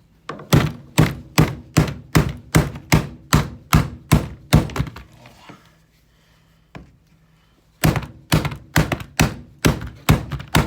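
Hammer blows beating on a power drill, about two or three quick strikes a second, in two runs separated by a pause of about three seconds.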